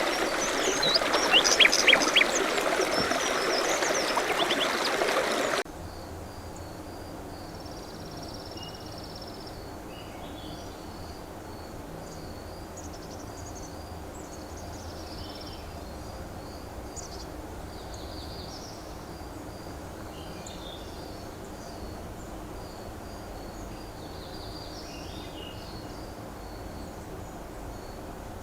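Running water with birds chirping, cut off suddenly about five seconds in. It gives way to a quieter outdoor ambience of scattered bird calls over a steady, evenly repeated high chirping.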